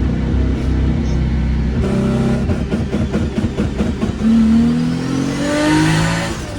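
Turbocharged Toyota Supra engine heard from the cabin: steady running, then a rapid crackling clatter about two to four seconds in, then the revs climbing steadily under acceleration with a faint rising whine above, cutting off sharply near the end.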